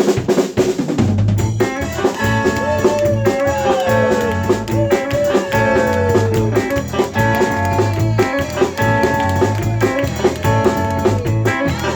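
Band music: drums alone for the first second or so, then the full band comes in about two seconds in with a steady bass pulse, held chords and sliding melodic lines, as the introduction to a song.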